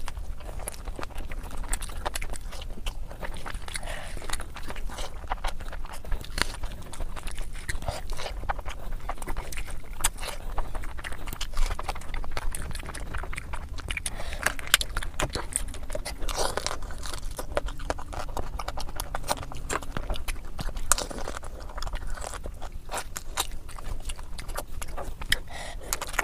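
Close-up sounds of a person eating crab and rice: chewing and biting with many short, irregular clicks and crackles throughout, over a faint low hum.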